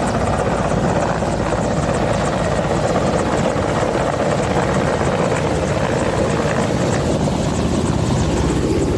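Helicopter running close by: a steady, rapid beat of rotor blades over continuous engine and rotor noise.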